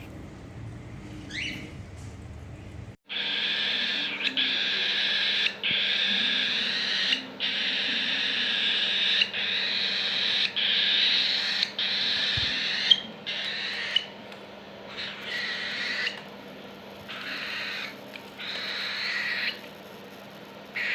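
Cockatiel giving a long run of harsh, raspy calls, each about a second long with short breaks between them. The calls start about three seconds in and grow weaker near the end.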